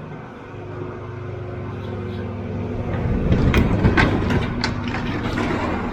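Engine of a small earthmoving machine running and growing louder, with irregular knocks and scraping from about three seconds in as crushed stone is spread.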